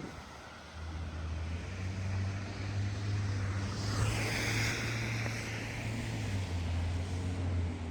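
A motor vehicle on the street: a low, steady engine hum, with tyre hiss that swells as the vehicle passes about four seconds in, then fades.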